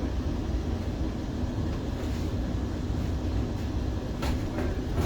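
Vande Bharat Express electric multiple-unit train running along the track with a steady low rumble. A couple of sharp clicks come about four seconds in, and a louder one near the end.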